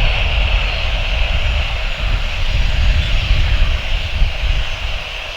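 Boeing 737's jet engines running loud, a deep rumble with a high whine over it, fading slowly as the airliner moves away.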